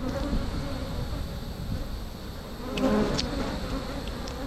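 Honeybees buzzing around an open hive, their pitch wavering up and down as individual bees fly close past. There are a couple of light clicks about three seconds in.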